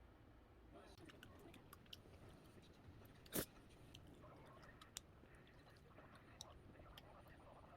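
Faint eating sounds: quiet chewing with scattered small clicks, and one sharper click about three seconds in.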